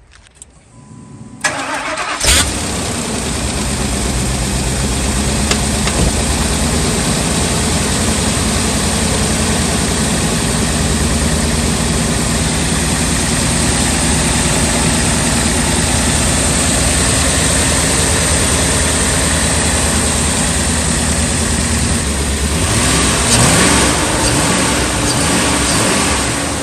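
2003 Ford F-250's 5.4 L V8 gasoline engine cold-started after sitting about two weeks. It cranks and catches about two seconds in, then idles steadily: a healthy cold start, not the rough idle. The engine note shifts near the end.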